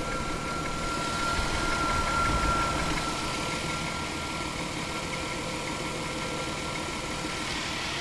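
Chrysler 300M's 3.5-litre V6 idling with a knocking noise, the fault the owner is demonstrating. A steady high whine runs over the engine sound and fades out near the end, and the engine gets slightly louder for a moment about two seconds in.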